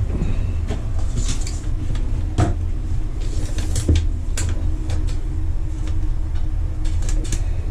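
Scattered light knocks and clicks, as tools and building materials are handled, over a steady low rumble.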